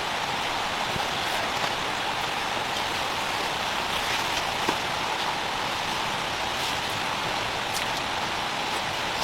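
Steady rain falling, with a few single drops ticking a little louder now and then.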